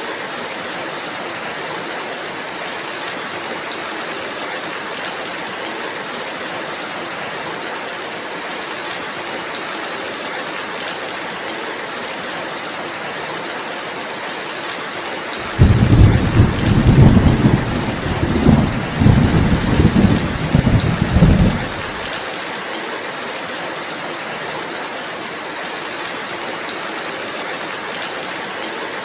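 Steady rain falling. About halfway through, a loud roll of thunder starts suddenly, rumbles in uneven waves for about six seconds, then stops.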